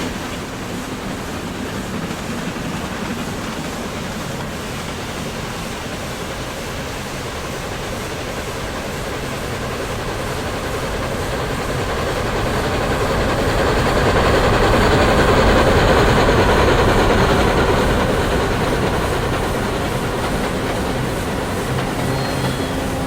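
A train running on rails with a clickety-clack, growing louder to a peak about two-thirds of the way through and then fading as it passes.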